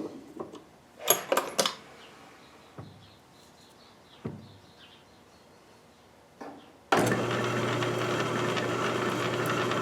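A cluster of sharp clicks and knocks from handling small parts, then about seven seconds in a small electric power tool switches on and runs steadily with a low hum.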